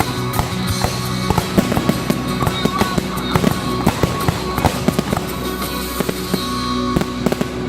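Fireworks going off in quick succession, a dense run of sharp bangs and crackles, over music.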